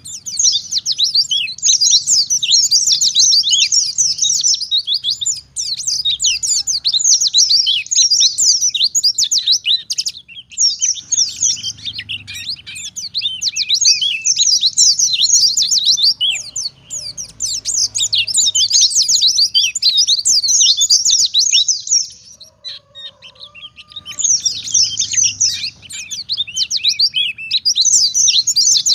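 White-eye (pleci) singing a fast, high twittering song in long runs, with short breaks about five, eleven and twenty-two seconds in.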